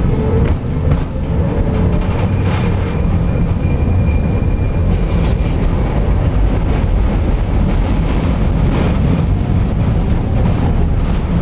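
Tram running along its rails: a steady rolling rumble, with the wheels clacking over rail joints now and then.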